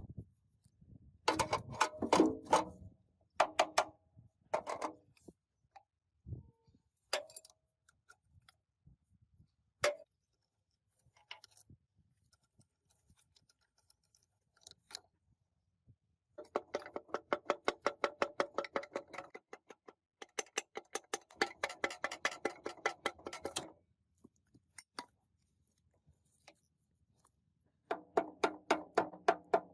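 Rapid tapping on a metal part, about seven strikes a second, each ringing briefly, in runs of a few seconds, with scattered clinks and knocks before the first run.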